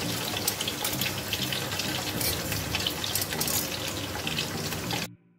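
Chicken leg pieces shallow-frying in hot oil in a non-stick pot: a steady sizzle full of crackling spatters, cut off suddenly about five seconds in.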